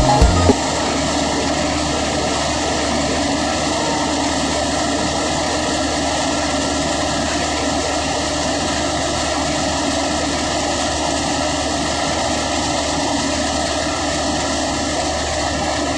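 An engine running steadily with an even, unchanging hum, after a few low knocks in the first half second.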